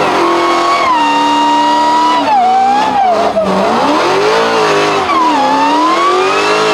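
Car engine revving hard, held at high revs, then dropping and climbing again twice, with tires squealing as the car is driven in a burnout or donut.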